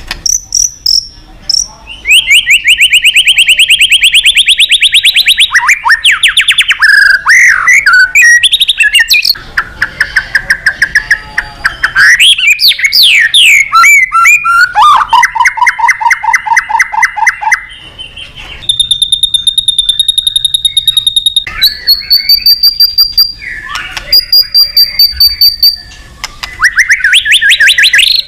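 White-rumped shama singing loudly in a bold, varied song: fast trills of rapidly repeated notes, sweeping phrases and a long clear held whistle about two-thirds through, with short pauses between phrases. It is the full-voiced territorial song used as a lure to call out rival shamas.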